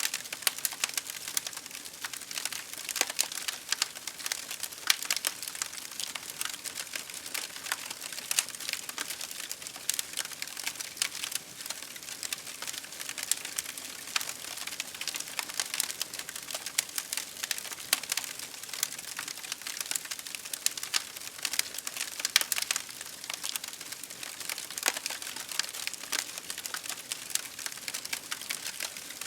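Campfire crackling steadily, a dense run of sharp pops and snaps from burning wood.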